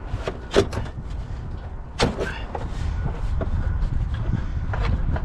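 Knocks and clicks of car front-end parts being handled and fitted: two sharp knocks, about half a second in and two seconds in, with lighter clicks between, over a steady low rumble.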